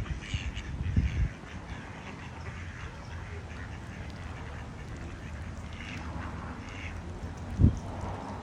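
Ducks quacking now and then, with low thumps about a second in and a louder one near the end.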